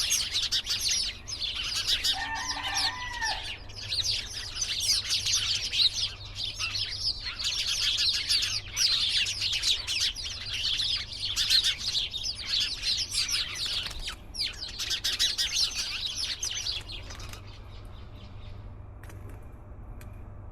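A flock of small birds chirping in dense, rapid, overlapping chatter, with one lower call about two seconds in. The chatter stops about three-quarters of the way through, leaving a faint steady high tone.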